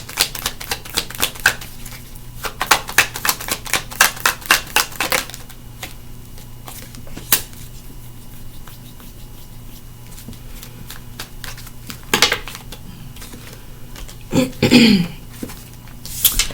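Tarot cards being shuffled by hand: a rapid run of crisp card clicks for about five seconds, then scattered light taps, with a few louder handling sounds near the end.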